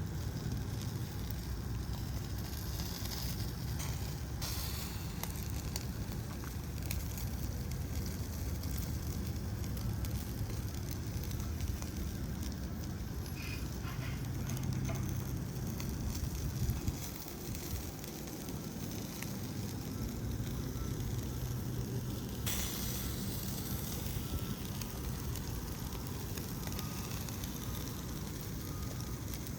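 Open wood fire crackling, with scattered pops over a steady low rumble.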